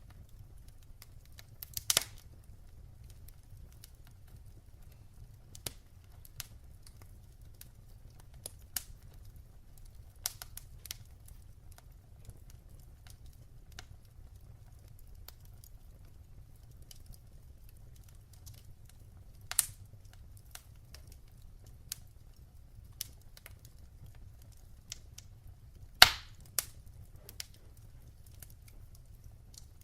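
Wood fire burning in a fireplace, crackling: irregular sharp pops and snaps over a low steady rumble of the flames, with the loudest pops about two seconds in and near the end.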